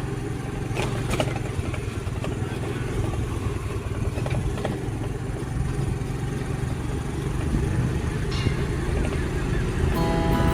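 Steady motor-vehicle engine and road noise, with a few faint knocks. Music comes in near the end.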